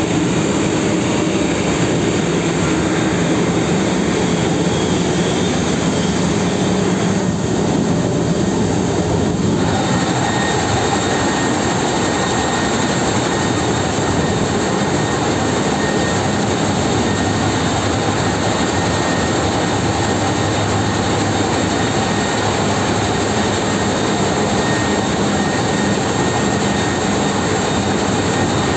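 Ship's engine-room machinery running: a loud, steady drone of engines with a constant hum and whine over it. The tone shifts about eight to ten seconds in, when a higher whine comes up.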